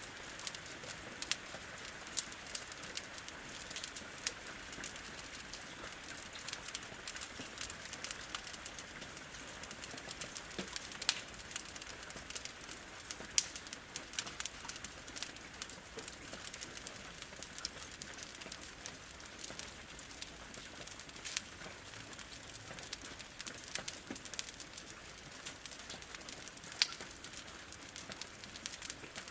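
A wood fire crackling and popping, with sharp irregular snaps, over a steady hiss of rain against a window.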